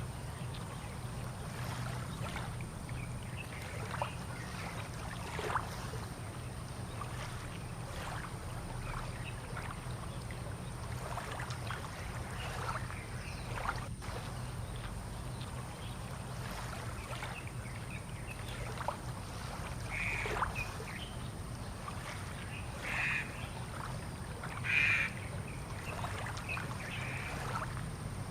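Harbour ambience: water lapping and splashing in short irregular ticks over a steady low hum. In the last third there are a few short bird calls, duck-like quacks.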